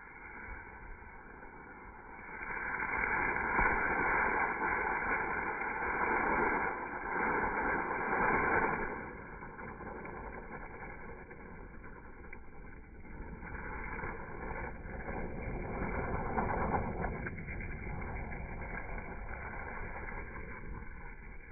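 A firework burning with a steady rushing hiss. It swells louder about two seconds in, eases off after nine seconds, and surges again for a few seconds in the second half.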